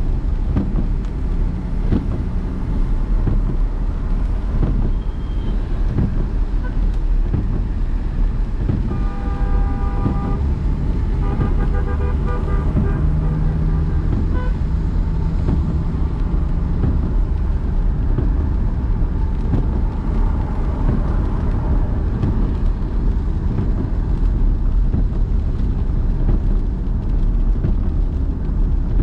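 Steady rumble of a car driving through city traffic, heaviest in the low end. Vehicle horns honk twice, each for about a second, about nine and eleven seconds in.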